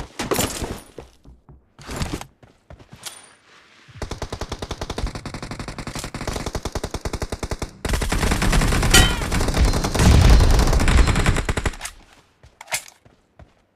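Automatic gunfire in a shooter video game: a few short separate shots in the first three seconds, then sustained rapid fire from about four seconds in, heavier and louder from about eight to twelve seconds, and one last short shot near the end.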